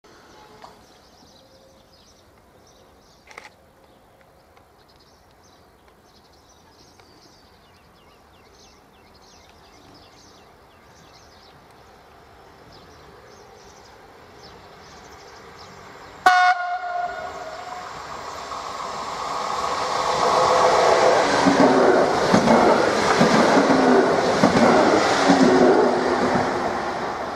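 Historic ETR252 'Arlecchino' electric train approaching and passing. It gives one short horn blast about two-thirds of the way in, then its rumble and rhythmic wheel clatter grow loud and ease off slightly near the end.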